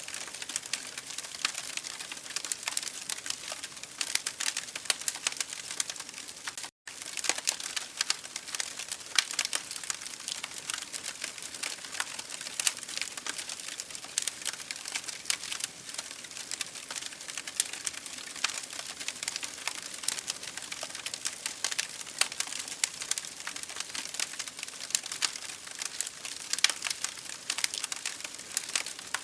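Wood fire in an open fireplace crackling steadily, with dense, irregular sharp pops and snaps over a soft hiss of flame. There is a brief gap in the sound about seven seconds in.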